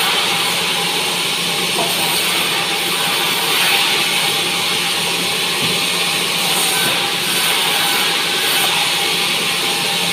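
Bandsaw sawmill cutting pine, a loud steady sawing noise with a faint machine hum underneath.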